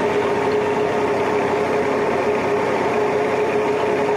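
Boat engine running steadily at idle, an even drone with a constant hum.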